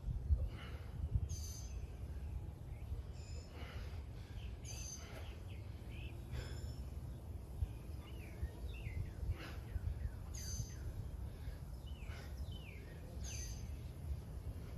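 Birds chirping, short high calls repeating every couple of seconds with some quicker bent chirps in the middle, over a steady low outdoor rumble.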